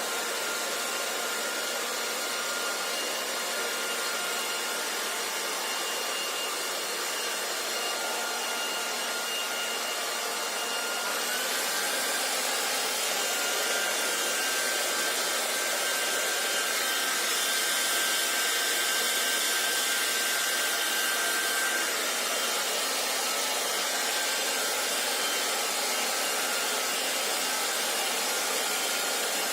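Hair dryer blowing: a steady whooshing rush of air with a faint thin whine on top. About eleven seconds in it gets slightly louder and brighter and the whine steps up a little in pitch, then eases back near twenty-two seconds.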